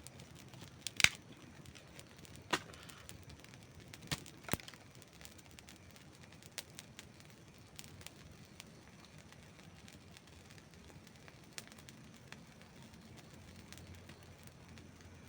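Campfire burning, with sharp wood pops and cracks over a low steady hiss; a loud crack about a second in and several more in the first five seconds, then smaller scattered crackles.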